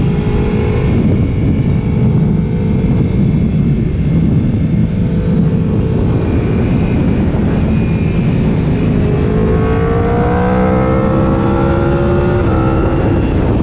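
Sport motorcycle engine running hard under a heavy rush of wind on the microphone. The engine note climbs steadily from about two-thirds of the way in, then drops as it shifts up near the end.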